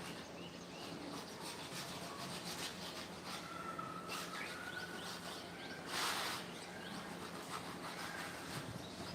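Outdoor bird sounds: scattered chirps and short whistled notes over a background of faint clicks and rustles, with one brief, louder harsh noise about six seconds in.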